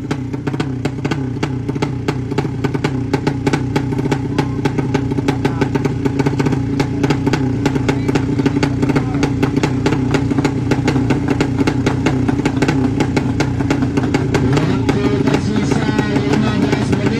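Racing motorcycle engine running hard at a steady high pitch, with a fast run of sharp cracks through it.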